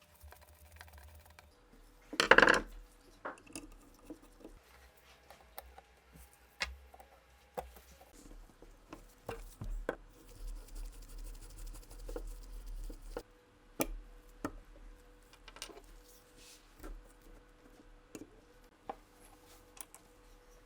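Small metal parts of a Nagant revolver clicking and clinking as it is handled, with one short, louder scrape about two seconds in.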